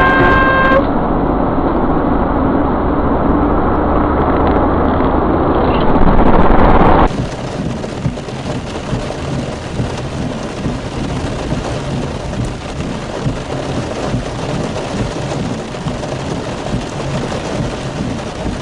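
Steady rumbling road noise from a moving vehicle, loudest just before an abrupt change about seven seconds in, then a different steady rumble with faint irregular knocks.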